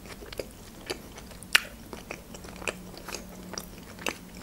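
Close-miked chewing of soft baked mushroom julienne: wet mouth clicks and lip smacks at irregular intervals, the loudest about a second and a half in. A fork scrapes the foil tray near the end.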